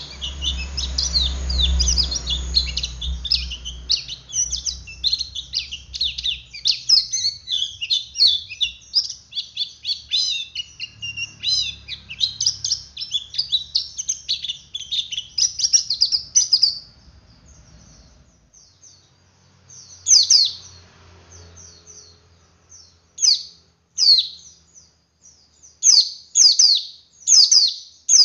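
Male white-eye (pleci dakun) singing a fast, unbroken 'ngeriwik' twitter of high chirps. About two-thirds of the way through it breaks off into separate short chirps with pauses between them.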